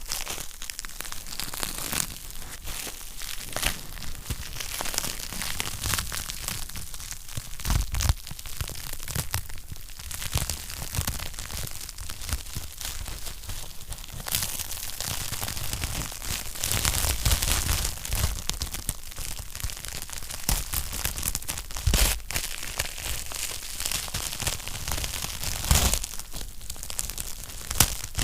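Wood fire burning in a fireplace, crackling continuously with dense snaps and a few louder pops.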